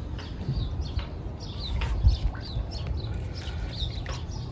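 Small birds chirping, with many short falling chirps over a low rumble. There is one dull thump about two seconds in.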